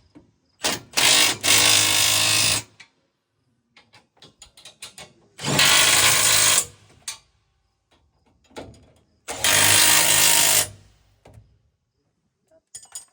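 A handheld power tool running in bursts, one brief and then three of about a second and a half each, driving bolts while concaves are fitted in a combine. Light metallic clicks and clanks come between the bursts.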